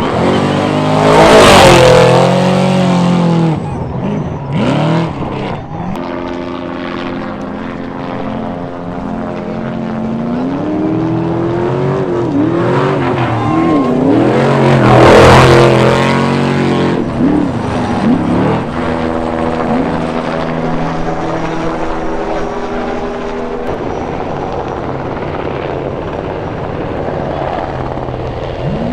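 Trophy Truck off-road race trucks speeding past, their engines revving hard and rising and falling in pitch. Two trucks are loudest as they pass close, about a second and a half in and again around fifteen seconds. Under them runs a steady drone of an aircraft, most likely a race helicopter overhead.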